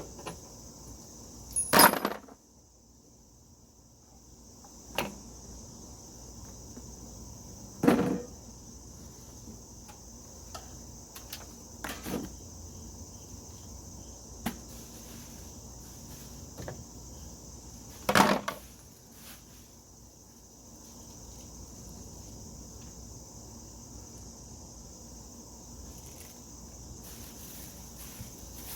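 Crickets chirring steadily, broken by a handful of sharp knocks and thuds, the loudest about 2, 8 and 18 seconds in.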